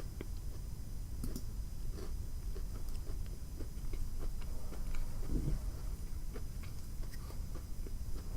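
A person chewing a dry, dense buttermilk biscuit with the mouth, with many small wet clicks and smacks, and a fuller chewing or swallowing sound about five seconds in.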